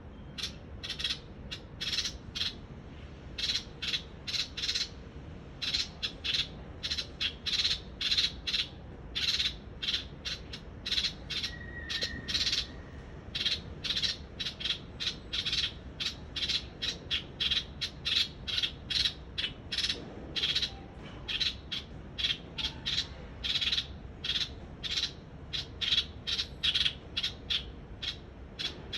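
A bird calling over and over: short, scratchy calls, about two a second, often in pairs or threes, with a low steady hum beneath.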